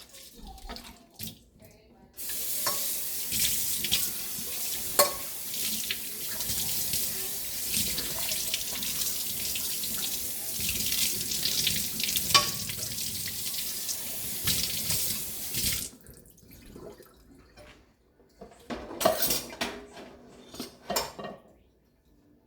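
Kitchen sink faucet running steadily, turned on about two seconds in and shut off abruptly about fourteen seconds later, with a few clinks during the flow. A few short knocks follow near the end.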